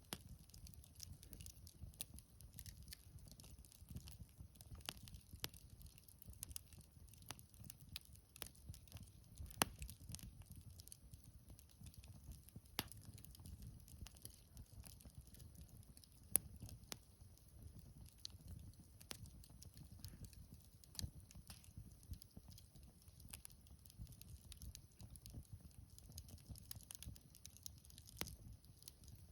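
Wood bonfire crackling: irregular sharp pops and snaps, two of them louder, over a low rumble.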